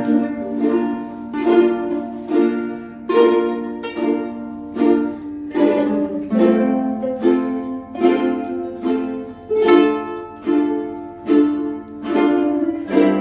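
Solo ukulele played fingerstyle: plucked chords with melody notes on top, struck in a steady, even rhythm of a little more than one a second.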